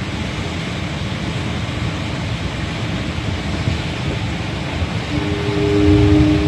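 Steady low rumble of city traffic and rain heard from high up. About five seconds in, a horn sounds a steady two-note chord and holds to the end.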